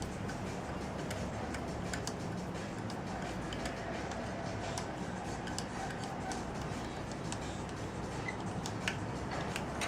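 Scattered light clicks and ticks, a few a second at uneven spacing, over a steady low background hum.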